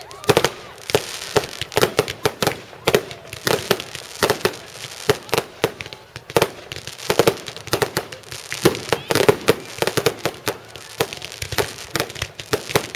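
Fireworks going off: a rapid, uneven string of sharp bangs and crackles, several a second, from aerial shells bursting overhead.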